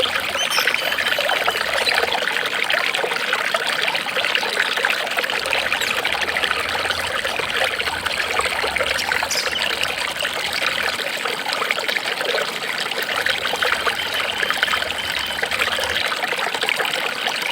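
Water trickling and babbling steadily, like a small stream, with no change in level.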